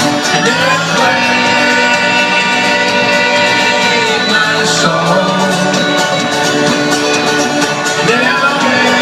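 Live folk-rock band music: strummed acoustic guitars and plucked strings in an instrumental passage, with some voices singing along without words.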